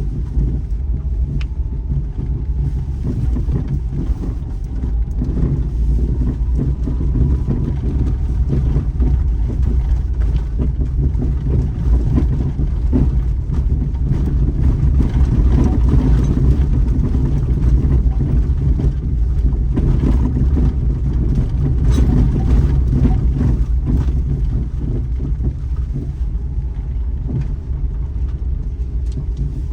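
Daihatsu Terios Kid driving along a forest road: a steady low rumble of engine and road noise, with many small knocks and rattles from the rough surface.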